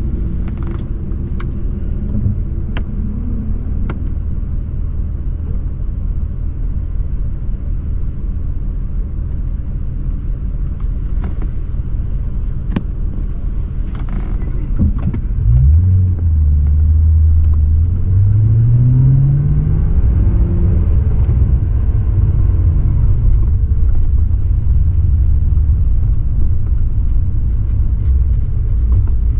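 BMW 540i's V8 engine and exhaust with a low, steady rumble at light throttle. About halfway through the engine picks up, and the pitch rises as it pulls through a gear, then drops back as the shift is made, settling into a steady drone. A few sharp clicks are heard in the first half.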